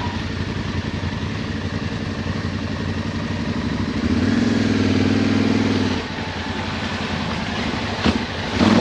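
Adventure motorcycle engine running steadily while riding off road, with a louder, steadier drone for about two seconds from about four seconds in.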